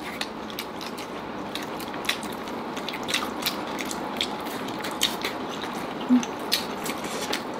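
People chewing food close to the microphone, with irregular small clicks and smacks from mouths and fingers over a steady hiss.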